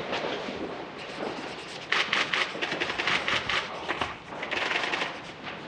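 Camera shutters firing in rapid bursts: two runs of fast clicking, about ten clicks a second, with scattered single clicks around them.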